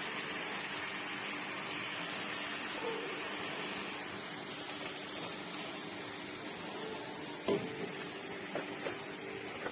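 Stir-fry of vegetables and sauces sizzling steadily in a hot pan, with a few sharp taps of a spatula against the pan near the end.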